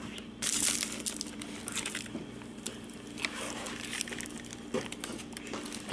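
Broken foam airframe of an RC T-28 being handled, crinkling and crunching in quick irregular clicks and crackles, starting about half a second in.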